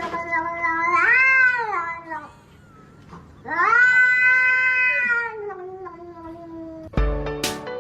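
A cat yowling in two long drawn-out calls, each rising and then falling in pitch, with a pause of about a second between them.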